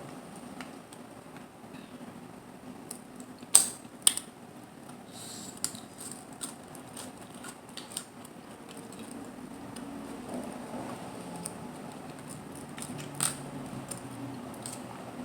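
Close-miked eating of mussels and clams: small clicks and soft mouth sounds, with two sharp clicks close together about three and a half seconds in and another past the middle, over a steady low hum.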